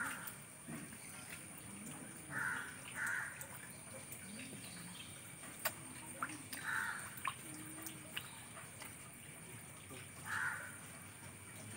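A bird calling in short, harsh caws, about five in all, single or paired and a few seconds apart. A few sharp clicks sound between the calls.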